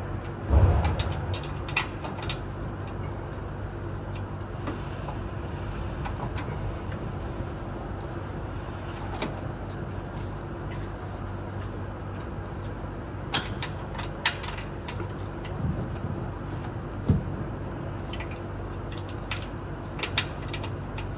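Steady mechanical hum of the shop, with scattered metal clicks and knocks from hand work on the exhaust mount as bolts are fed toward their holes. The loudest is a dull knock about half a second in.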